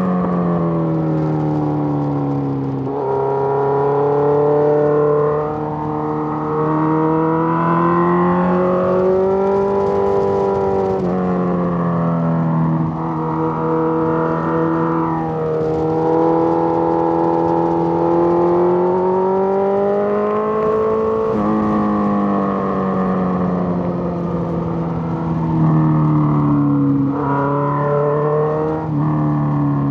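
Suzuki GSX-R1000's inline-four engine pulling through the gears on a twisty road, its pitch rising and falling with the throttle. There is a sharp drop in pitch about three seconds in, a sudden jump up about two-thirds of the way through, and more quick shifts near the end.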